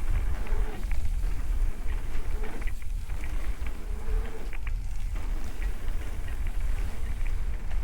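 Mountain bike riding down a dirt trail: heavy wind rumble on the microphone, with scattered clicks and rattles from the bike and its tyres over the ground.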